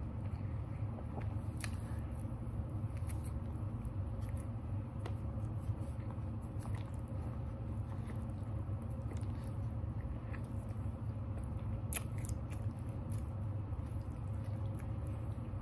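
A person chewing food with the mouth closed: scattered small wet mouth clicks, the sharpest about one and a half seconds and twelve seconds in, over a steady low hum.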